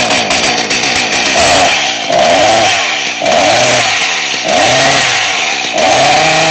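Engine sound revving up and down in repeated blips, about five swells, each rising and falling in pitch with a steady buzzing tone on top.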